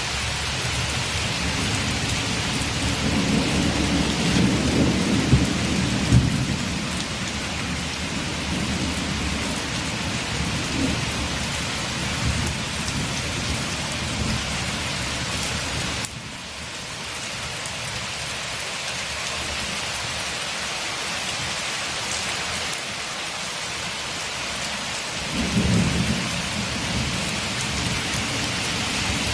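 Steady heavy rain on a window, a constant hiss of drops. Low rumbles of thunder swell a few seconds in and again near the end, and the rain's sound shifts abruptly about halfway through.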